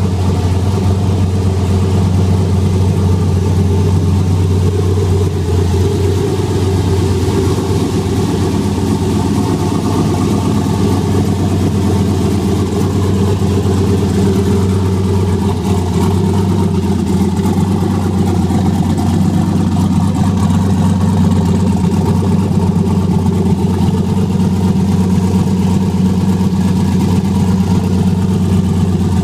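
Turbocharged Chevrolet 6.0L V8 engine, fitted with an ON3 Performance turbo kit, running steadily at low revs with no big throttle blips; its deepest note fades a little after about six seconds.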